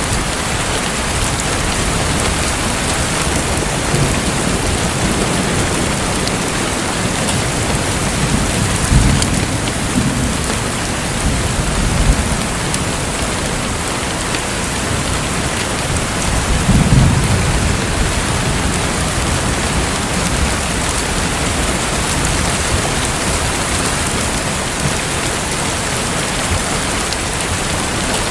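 Steady hiss of falling or splashing water, like rain, with low rumbles swelling briefly about nine seconds and seventeen seconds in.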